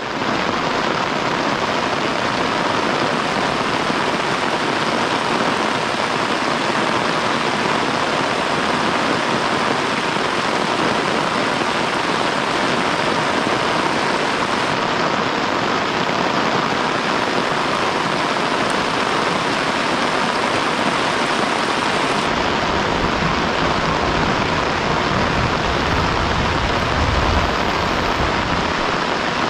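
Heavy rain falling steadily, an even hiss with no let-up. A low rumble joins in over the last several seconds.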